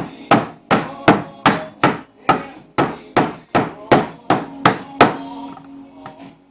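A hammer striking wood in a steady series of about fourteen sharp blows, roughly three a second, each with a short ring, stopping about five seconds in.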